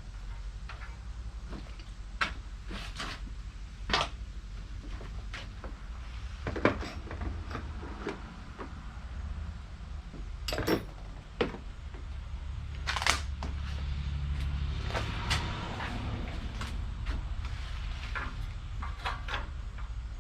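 Hand tools and metal parts being handled during engine teardown work: scattered sharp metallic clinks and knocks at irregular intervals, over a low steady hum.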